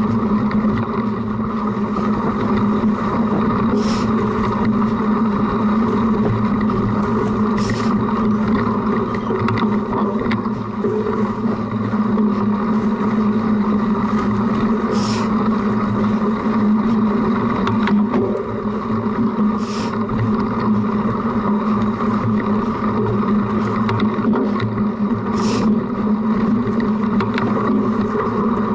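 Steady rumble and rattle of a cyclocross bike ridden hard over rough ground, picked up by a camera mounted on the front of the bike, with a brief high tick every few seconds.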